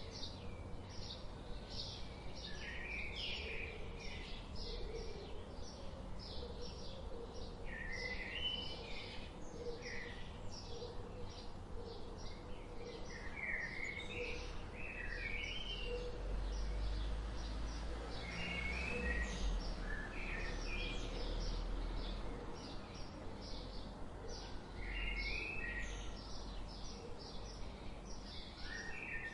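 Several small birds chirping and singing: a steady stream of short, high chirps with repeated warbled phrases between them, over a background hiss, and a low rumble around the middle.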